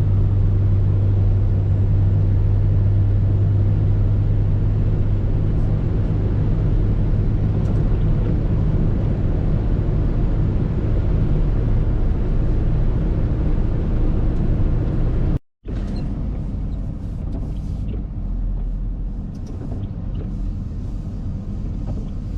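Tow truck's engine and road noise while driving, a steady low drone. It cuts off abruptly about two-thirds of the way through and resumes as a slightly quieter rumble.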